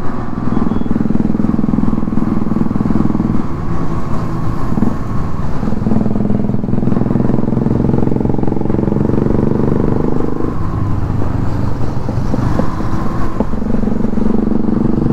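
Yamaha RX two-stroke single-cylinder motorcycle engine running under way, its note shifting with the throttle several times, mixed with other motorcycles riding alongside in a group.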